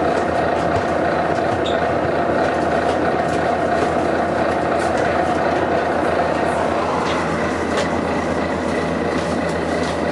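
Volvo B9TL double-decker bus engine running steadily, with a faint high steady tone joining about seven seconds in.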